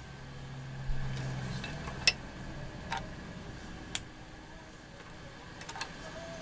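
Light, scattered clicks and taps of small hard objects being handled, about five in all with the sharpest about two seconds in, over a low hum that stops about a second and a half in.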